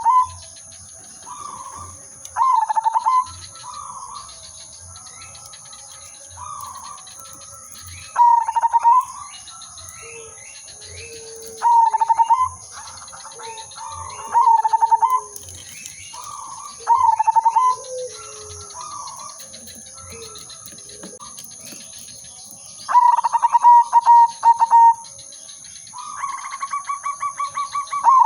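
Zebra dove (perkutut) cooing its song: loud rolling, trilled phrases repeated every few seconds, with softer phrases between, and a longer drawn-out trill near the end.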